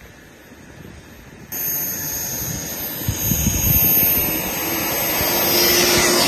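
Twin Kingtech K45TPG4+ model turboprop engines running with a high turbine whistle over a loud rush of noise. The sound comes in abruptly about a second and a half in and grows louder towards the end.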